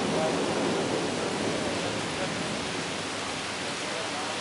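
Rain falling in a steady hiss during a severe thunderstorm.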